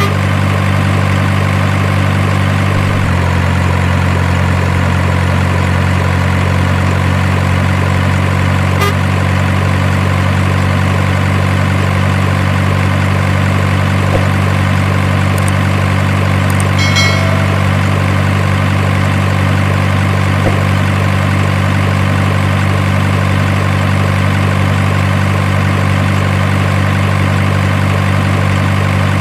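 Truck engine idling sound, a steady low rumble that shifts slightly in pitch about three seconds in.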